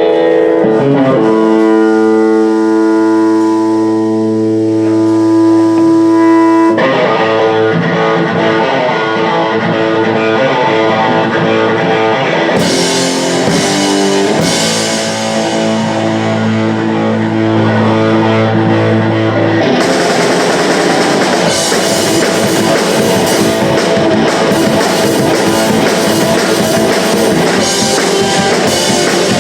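Punk rock band playing live: a distorted electric guitar riff with long held notes, then drums and bass join about seven seconds in, with cymbals crashing from about twenty seconds in.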